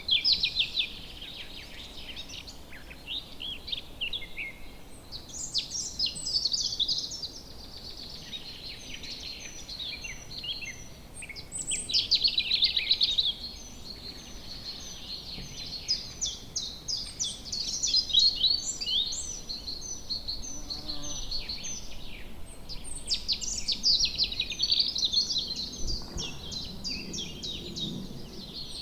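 Many small birds chirping and twittering at once in a dense, continuous chorus of short, high calls.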